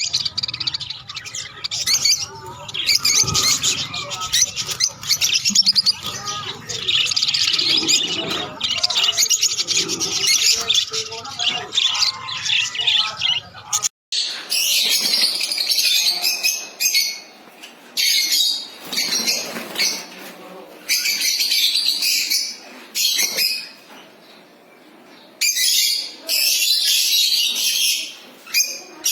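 A caged flock of lovebirds chattering with rapid, shrill chirps and squawks, dense and continuous at first, then coming in bursts with short lulls between them.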